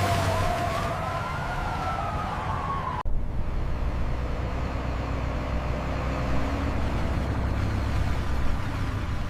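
Emergency vehicle siren wailing, its pitch rising and falling, cut off abruptly about three seconds in. After that comes a steady low rumble.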